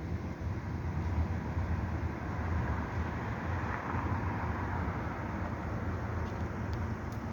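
Steady outdoor background noise: a low rumble with a hiss that swells briefly around the middle, like distant traffic or wind on the microphone.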